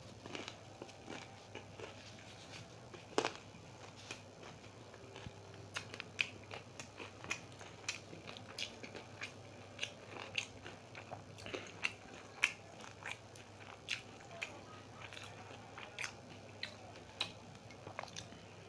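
Close-up chewing of crunchy fried samosa pastry, with many sharp irregular crunches, about one or two a second.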